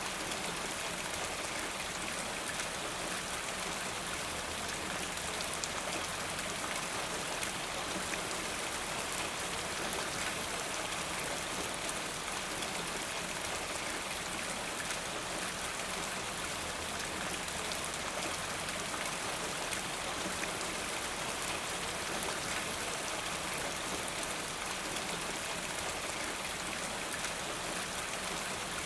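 Steady rainfall, a dense even patter of many small drops.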